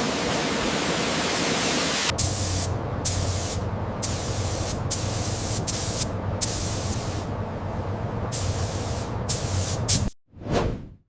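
Spray gun hissing: a steady spray at first, then about two seconds in it runs in repeated bursts with short breaks as the trigger is pulled and released, over a low hum. A brief swelling whoosh sounds near the end.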